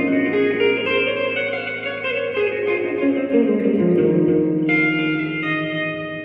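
Fender Player Telecaster electric guitar through a Fender Champion 20 amp, played clean with heavy reverb and delay, picking a run of single notes up and down a scale so the notes ring into each other. About four and a half seconds in a brighter note is struck and rings out, fading.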